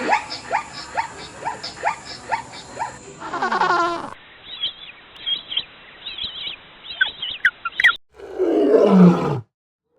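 Animal calls from several clips cut together: a run of short chirps repeating about twice a second, then high squeaky calls, then one loud, low roar-like call falling in pitch about eight seconds in.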